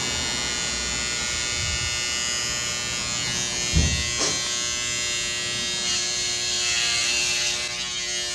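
Electric hair clippers running with a steady buzz, used for a home haircut. There is a brief knock about four seconds in.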